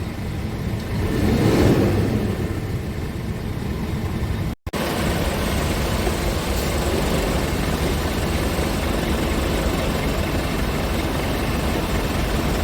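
Scania R490 truck's 13-litre inline-six diesel running, swelling briefly near the start, then steady after a short break in the sound about four and a half seconds in.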